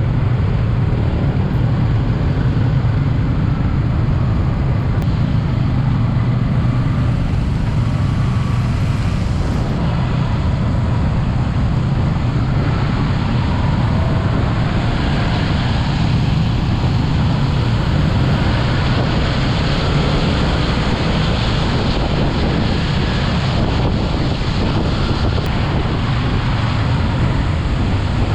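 Steady wind rushing over the microphone of a riding motorcycle, with the Yamaha MT-15's single-cylinder engine running evenly beneath it.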